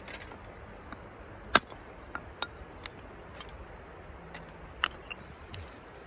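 Dry softwood kindling being split by hand. A sharp crack comes about one and a half seconds in, then lighter wooden knocks and clicks, and another crack near five seconds.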